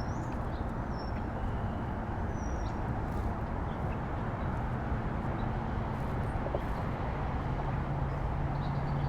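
Steady rumble of distant traffic, with a few short, faint, high bird chirps in the first few seconds.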